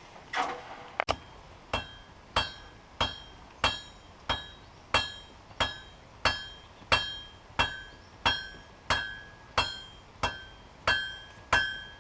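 Hand hammer striking hot steel bar stock on an anvil in a steady rhythm, about three blows every two seconds. Each blow leaves a clear ringing tone from the anvil. This is the forging of a taper, drawing out the end of the bar.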